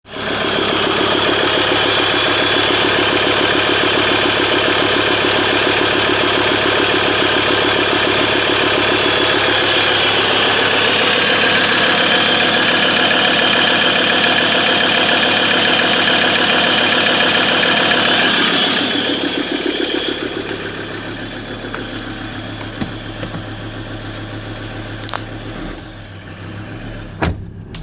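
2012 Ford Ranger PX's 3.2-litre five-cylinder turbo diesel running steadily. Its sound drops noticeably in level about two-thirds of the way through and stays as a quieter hum, with a couple of sharp clicks near the end.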